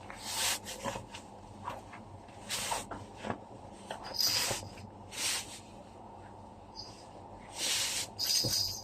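Household cleaning noises: about six short hissing strokes, each under half a second, spaced irregularly, with a few light clicks between them.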